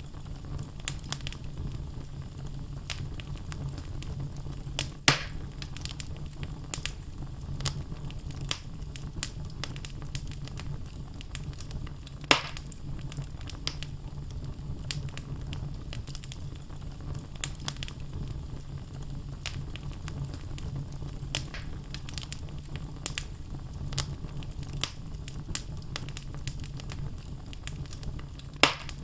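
Wood fire burning in a fireplace: logs crackling over a steady low rumble of flame, with many small ticks and three sharp, louder pops, about five seconds in, near the middle and near the end.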